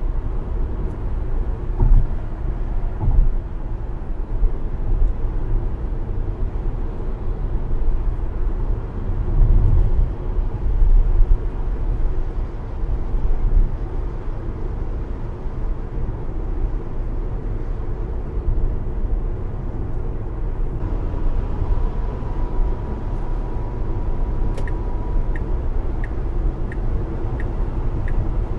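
Road and tyre noise in the cabin of a Tesla Model S driving over uneven pavement, with low thuds from the suspension over the bumps, the strongest about 2, 3 and 10 seconds in. Near the end a brief faint steady tone, then a run of light regular ticks.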